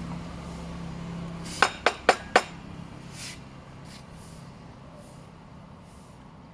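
Four quick clinks of glass or crockery about a quarter second apart, over a low steady hum that fades out just before them.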